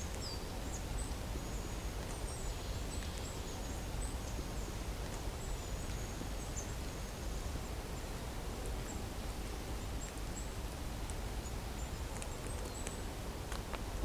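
Small forest birds giving thin, very high chirps scattered throughout, over a steady background hiss, with a few sharp snaps or rustles near the end.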